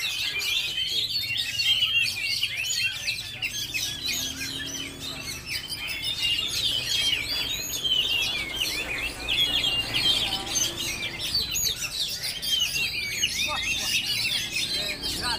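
Many caged oriental magpie-robins (kacer) singing at once, a dense, unbroken chatter of quick chirps and whistles.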